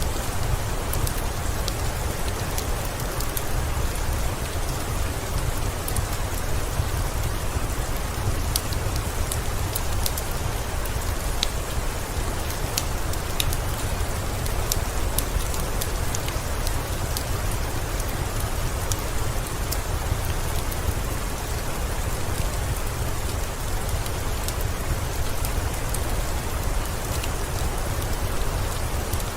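Steady rain falling, with a deep low rumble underneath and scattered sharp ticks throughout.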